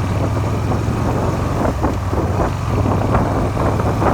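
Suzuki SV400 motorcycle engine running at a steady cruise while riding, with wind buffeting the microphone. This engine knocks after a makeshift crankshaft repair done with a file.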